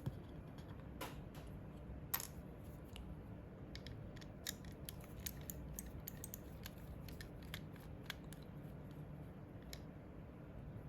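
Small, sharp, irregular clicks and taps of a computer mouse and its small plastic parts being handled during a switch repair, over a steady low hum.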